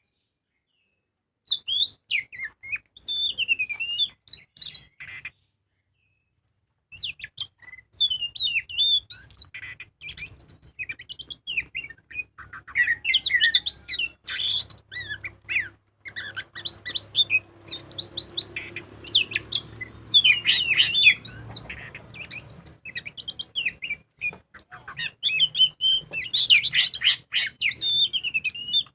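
Oriental magpie-robin (kacer) singing a long, varied song of quick whistles, trills and chattering phrases. It begins about one and a half seconds in, breaks off briefly about five seconds in, then sings on almost without pause.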